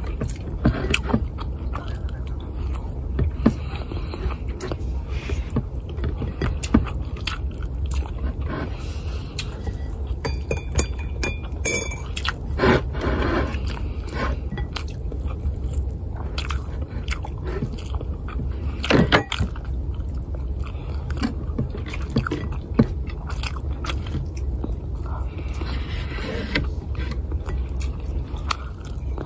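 Close-up mouth sounds of a person eating garlic fried rice, ham and fried egg by hand: chewing with many wet smacks and clicks, a few louder ones, over a steady low hum.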